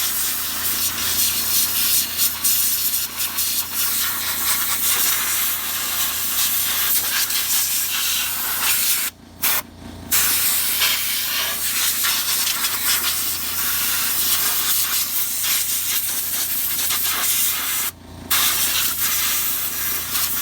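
Compressed-air blow gun hissing in long blasts, blowing brake cleaner and dirt off a lawn mower engine to dry it; the air is let off briefly twice about nine seconds in and once near eighteen seconds.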